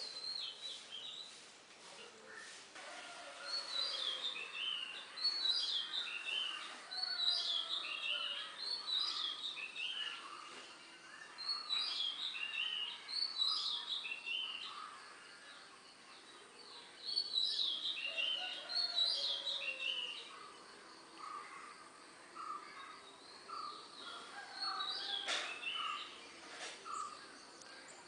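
Several birds chirping, in quick high phrases every second or so, loudest between about 4 and 20 seconds. Softer, lower chirps repeat toward the end.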